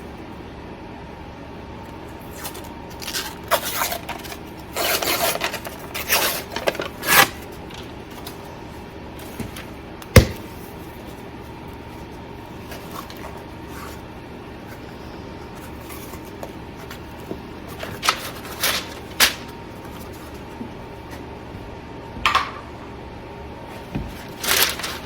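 A cardboard tube of refrigerated crescent dough being opened: scraping, tearing sounds as the paper wrapper comes off, then one sharp pop about ten seconds in as the tube bursts open. A few short rustles of the dough and packaging follow.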